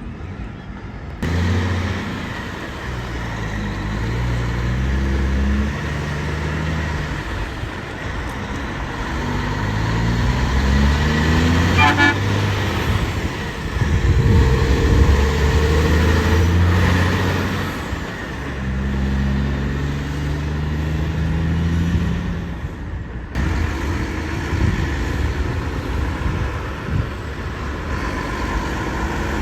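Road traffic with trucks pulling away, engine pitch climbing in steps as they shift up through the gears, several times over. A horn sounds briefly about halfway through.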